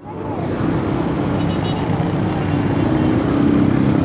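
Road traffic: vehicle engines running with a steady low rumble and hum, with voices in the background.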